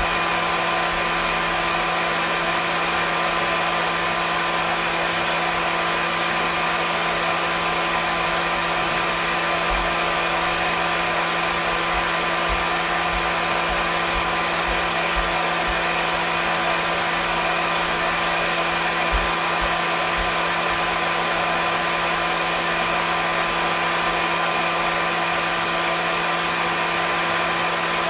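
Hair dryer running steadily: an even rushing whoosh of air with a constant motor hum under it.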